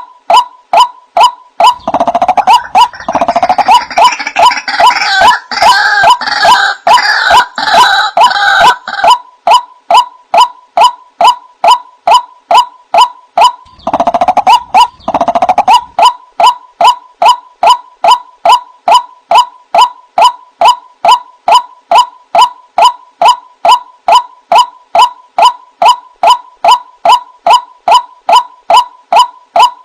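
White-breasted waterhen lure recording: a short, monotonous call repeated about three times a second. From about 2 to 9 s, and again around 14 to 16 s, a harsher, fuller burst of calling joins it.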